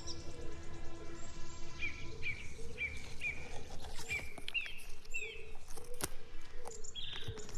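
Birds calling outdoors: a run of short repeated chirps, two or three a second, from about two seconds in, over a lower call repeated throughout, with a higher call near the end.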